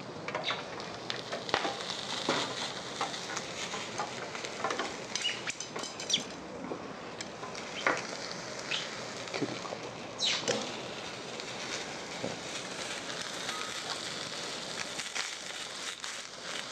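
Skipjack tuna (bonito) fillet searing skin-side down in a hot frying pan: a steady sizzle with scattered pops and crackles as the skin browns.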